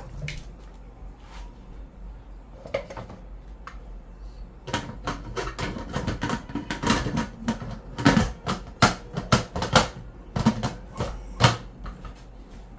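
Kitchen cookware being handled: a quick run of knocks and clinks of pot, lid and utensils, with the busiest stretch from about five seconds in to near the end.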